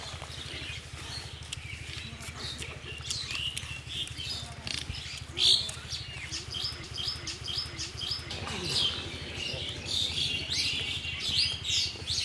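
Small birds chirping and calling, many short calls throughout, over a steady low hum. A single sharp click about five and a half seconds in.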